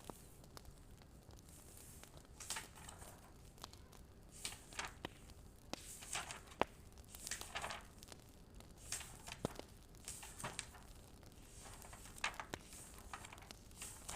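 Wood fire crackling, with irregular sharp pops and short hissing crackles over a faint steady background.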